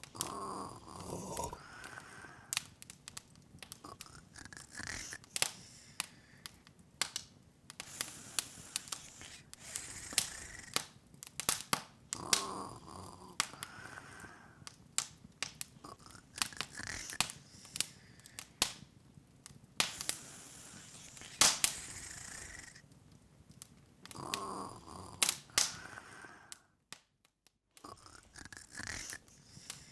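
Open fire crackling, with frequent sharp pops and snaps over a soft hiss. A soft rising-and-falling sound recurs every few seconds, and the sound cuts out for about a second near the end.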